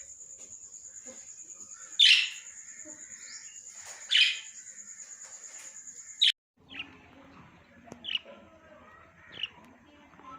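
Small pet parrots chirping: loud sharp calls about two seconds in and again about four seconds in, over a steady high-pitched pulsing tone that cuts off suddenly after about six seconds. After the cut come softer scattered chirps over a low hum.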